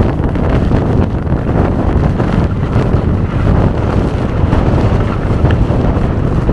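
Strong gusting mountain wind buffeting the microphone: a loud, continuous low rumble that swells and dips with the gusts.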